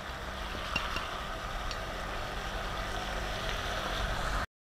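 Chicken pieces frying in oil in a pot on a gas stove, a steady low sizzle, with a couple of faint ticks as powdered spices are tipped in. The sound cuts off abruptly near the end.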